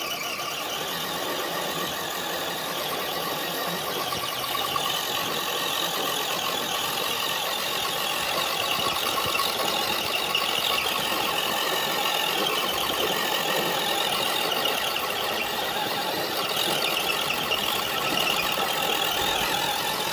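Axial Wraith RC truck's electric motor and gearbox whining steadily under load as it drags a weighted sled.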